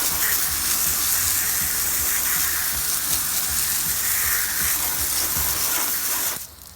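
Steady hissing from cleaning a rusty wheel rim, cutting off suddenly near the end.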